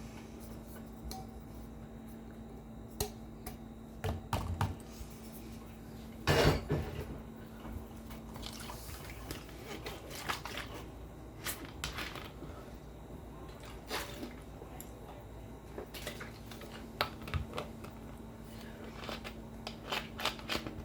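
Hotpoint NSWR washing machine making the weird noise in question: irregular clicks and clunks, the loudest about a third of the way in, over a low steady hum that stops partway through and comes back near the end.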